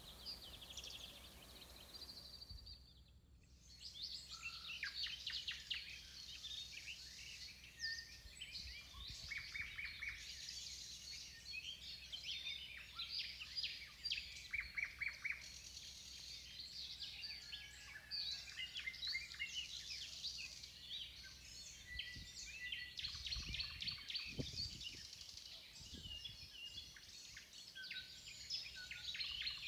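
Songbirds chirping and calling in a busy, overlapping chorus, with short rapid trills now and then. The sound cuts out briefly about three seconds in.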